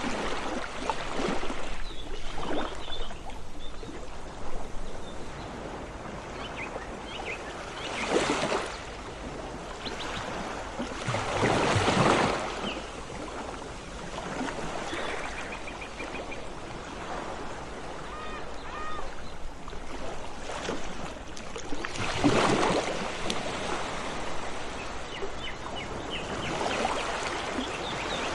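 Sea waves washing onto the shore, a steady rushing that swells into several louder surges, with small birds chirping faintly in between.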